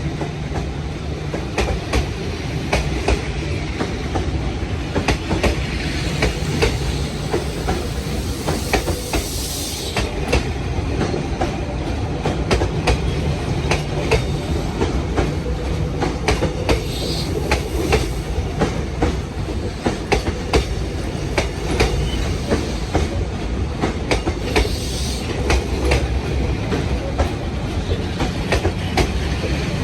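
Passenger train carriages rolling past at low speed as the train pulls out of the station, with a steady rumble, wheels clicking over rail joints, and brief squeals of wheel on rail a few times.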